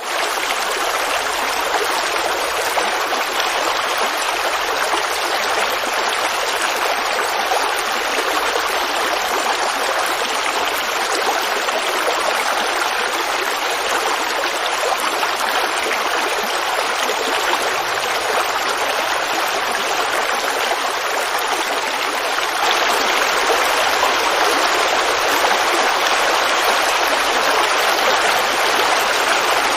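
Creek water babbling steadily, a little louder from about three quarters of the way in.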